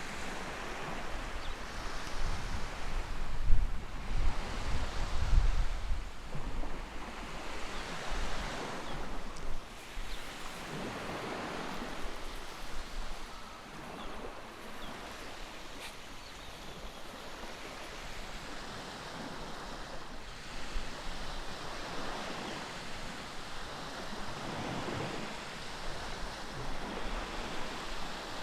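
Ocean waves washing in, a steady surf hiss that swells and fades every several seconds. A low rumble comes in during the first few seconds.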